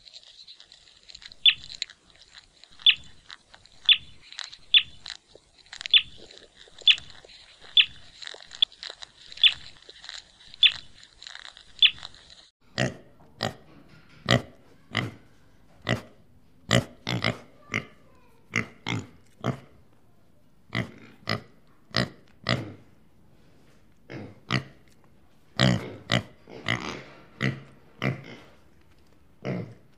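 An animal biting and chewing food, in sharp crunches. For the first twelve seconds they come about once a second over a steady high hiss. After an abrupt change, louder, fuller crunches follow irregularly, one or two a second.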